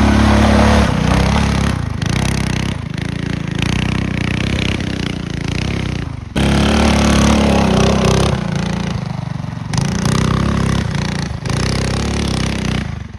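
A mini bike's small engine running hard under throttle, its pitch rising and falling with the throttle. The level drops briefly and jumps back up about six seconds in.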